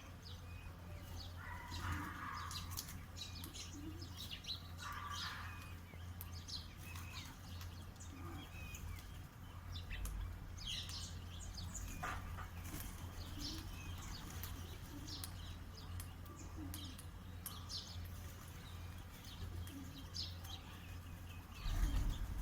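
Small birds chirping in short, scattered calls throughout, with a couple of brief rustles early on and a low steady hum underneath; a dull thump near the end.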